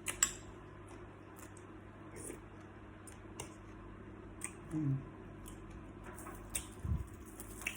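Eating salt-baked shrimp: scattered crackling clicks and wet squishes of the shells being peeled and the shrimp chewed, with two brief low mouth sounds near the end.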